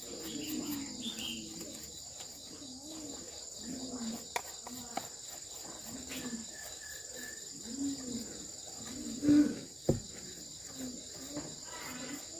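Crickets chirping steadily, under a string of short low calls repeating about once a second. There are a few sharp clicks midway and a louder knock near the end.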